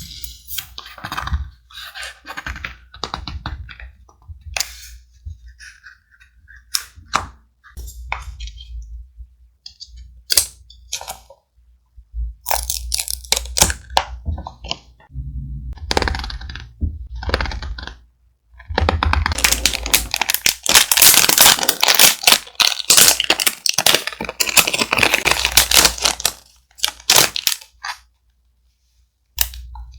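Thick paper being handled for a scrapbook collage: crinkling, rustling and sharp crackles, growing into a long stretch of dense crinkling about two-thirds of the way through.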